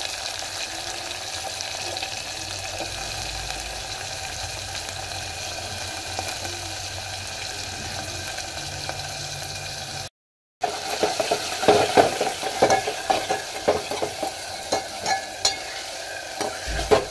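Sliced onion and green chillies sizzling steadily as they fry in a metal pot. After a brief break about ten seconds in, a steel spoon stirs them, scraping and clinking against the pot over the sizzle.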